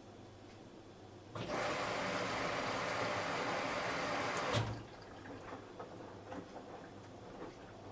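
Samsung Eco Bubble washing machine taking in water at the start of a cotton wash: a rush of water starts suddenly about a second in, runs for about three seconds and cuts off with a thump, followed by faint trickling ticks.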